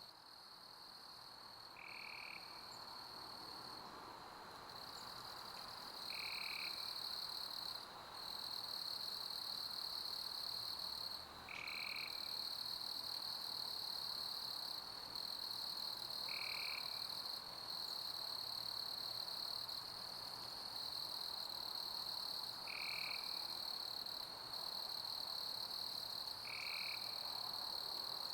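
Summer crickets trilling steadily in a high, continuous chorus that dips briefly a few times. Six short, lower calls come every four to five seconds, over a faint even hiss of pink noise.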